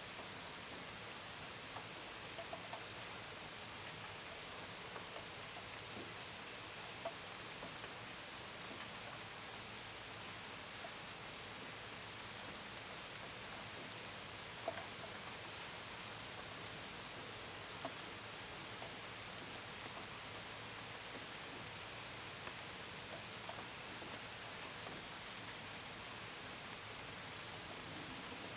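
Steady rain falling, with scattered drops tapping sharply, over a continuous high-pitched trill of crickets.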